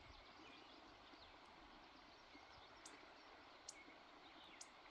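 Near silence: faint outdoor ambience with a few brief, faint ticks in the second half.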